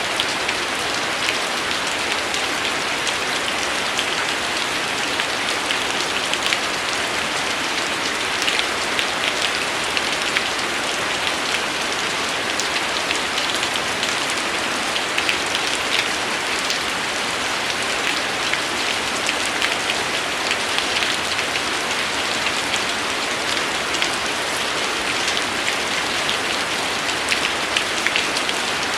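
Steady rain falling, an even hiss sprinkled with many small, sharp drop taps.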